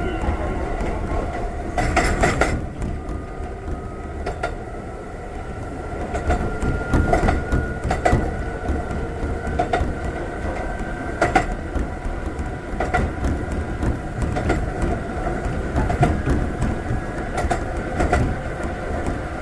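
Konan Railway 7000 series electric train (ex-Tokyu 7000 series, with Toyo Denki traction motors) running along the track. A steady rumble carries repeated rail-joint clacks, and a thin motor whine rises slowly in pitch a few seconds in.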